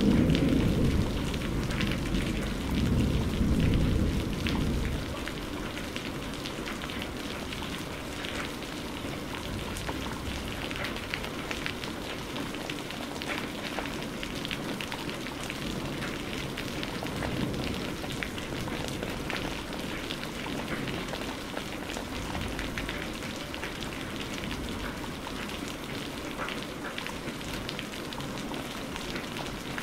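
Steady heavy rain falling, with many small drop ticks. A low thunder rumble dies away over the first few seconds.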